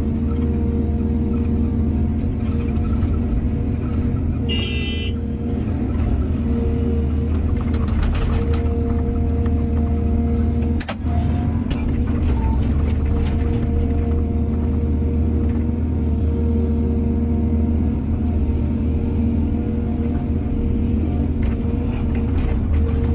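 Heavy diesel engine of an excavator running steadily at working revs, with a few knocks and a brief high squeal about five seconds in.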